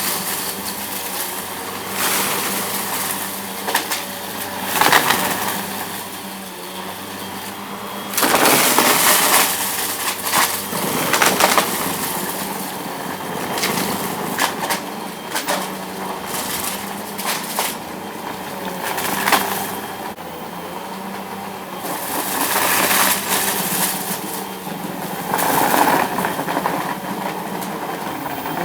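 Vacuum cleaner running steadily on a rug, picking up crunchy debris. Repeated surges of rattling and crackling, with many sharp clicks, come as the bits are sucked up.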